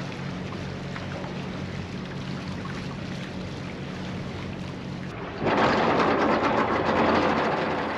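A boat's engine running with a steady low hum. About five seconds in the hum stops and a louder rushing noise takes over, then fades.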